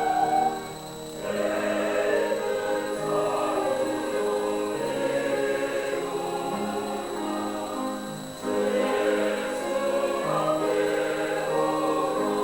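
A choir singing a hymn in held phrases, with short breaks between phrases about a second in and again near eight seconds in.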